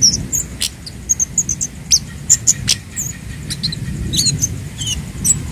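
Kemade flowerpecker calling: a quick, irregular string of short, sharp, very high chips and ticks, over a steady low rumble in the background.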